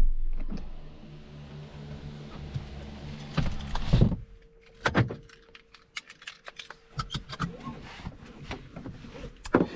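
Tuned Volkswagen Golf R's turbocharged four-cylinder engine switched off and running down to quiet, then a low hum. A couple of thumps come about four seconds in, followed by a string of small clicks and rattles inside the parked car's cabin.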